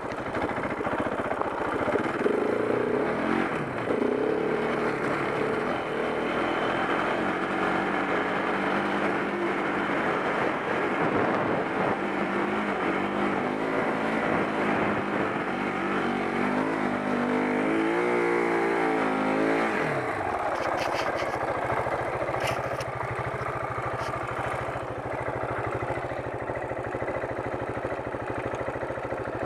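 KTM 690 Enduro R's single-cylinder four-stroke engine running under throttle while riding in soft sand. About two-thirds of the way through it revs up to a rising pitch, then drops back to a steadier, lower running, with a few short clicks just after.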